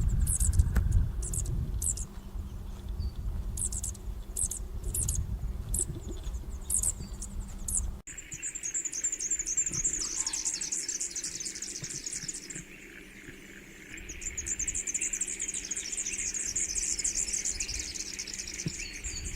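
Superb fairy-wren calling: short, high chirps over a low rumble, then, after a cut about eight seconds in, a long, rapid, very high trill that pauses briefly and starts again.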